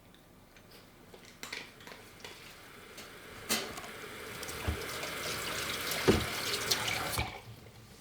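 Kitchen tap running into a sink for about four seconds, turned on and then shut off abruptly, with a few light knocks from things handled in the sink.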